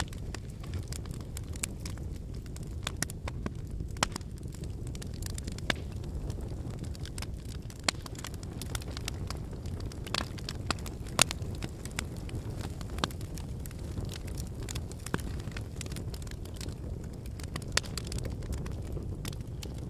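Wood bonfire burning: a steady low rumble of flames with frequent crackling of the burning logs and several louder pops, the sharpest about eleven seconds in.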